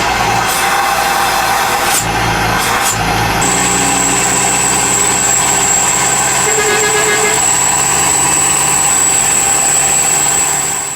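Euro 4 truck engine running loud and steady through an FRM racing muffler, with a few sharp clicks in the first three seconds.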